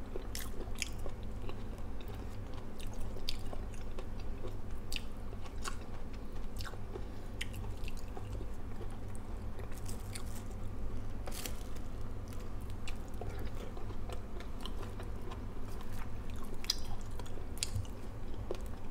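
A person chewing soft fried eggplant and rice eaten by hand, with scattered short wet mouth clicks and smacks over a low steady hum.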